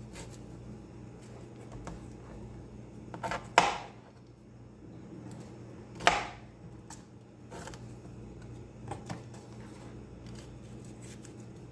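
Cauliflower being cut into florets with a knife: two sharp cracks about three and a half and six seconds in, with faint clicks of the knife and florets between.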